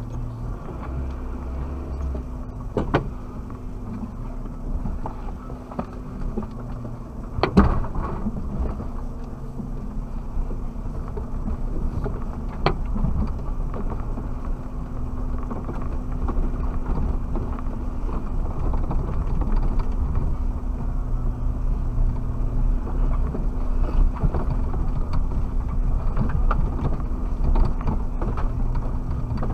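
Suzuki Jimny driving slowly over rough off-road ground, a steady engine and cabin rumble that grows slowly louder. A few sharp knocks come through it, the loudest about seven and a half seconds in.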